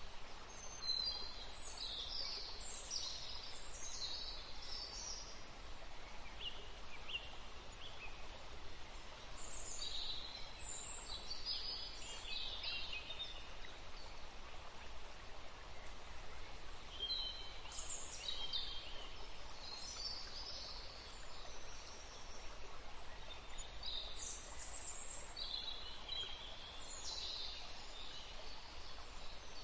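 Birds chirping in four short bouts of high calls, over a steady faint background hiss.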